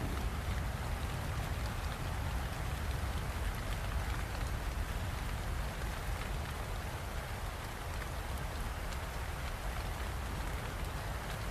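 Steady rainfall with a deep, constant low rumble underneath and faint patter of individual drops.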